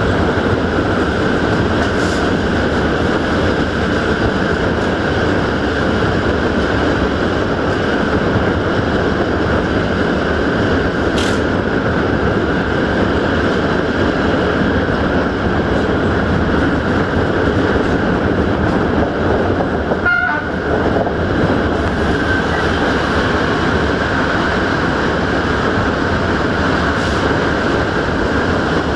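Passenger train running along the line, heard from an open carriage window: a steady, dense rush of wheel-on-rail and wind noise, with a brief dip about twenty seconds in.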